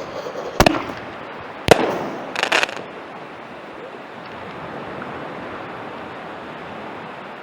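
Consumer artillery-shell firework going off: two sharp bangs about a second apart, the second the loudest, then a short burst of crackle.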